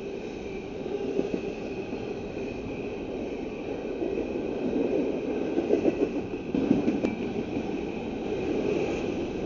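Union Pacific freight train rolling past, a steady rumble and clatter of freight cars' wheels on the rails that swells a little louder in the middle.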